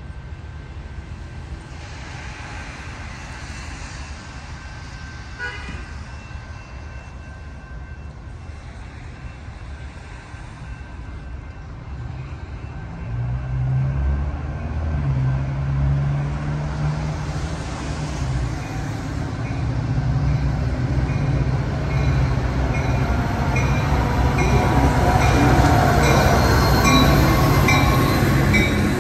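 Metra diesel locomotive and bilevel commuter train approaching and running into the station, its engine drone growing much louder from about halfway in. A bell rings in steady strokes about once a second through the second half.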